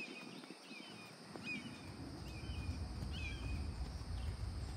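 A songbird chirping short, repeated notes a little under a second apart, over a low background rumble.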